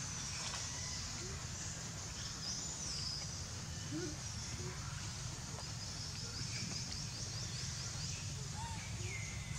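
Birds calling over a steady low background rumble: a couple of high whistled glides, and a rapid high trill lasting about two seconds in the second half.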